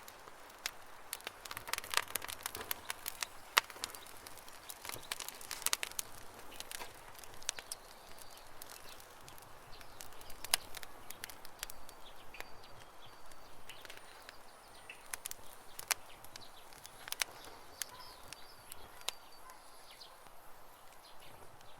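Campfire crackling with irregular pops and snaps, thickest in the first few seconds and sparser after, while birds chirp faintly in the background.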